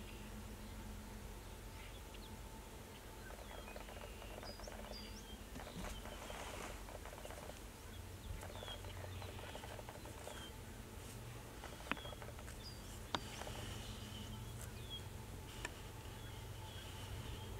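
Quiet outdoor ambience: a low steady rumble with many short, high chirps from small birds scattered throughout, and a few sharp clicks in the second half.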